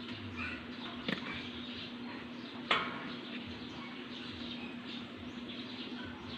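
Faint bird chirps over a steady low hum, with two sharp knocks, the second and louder one nearly three seconds in.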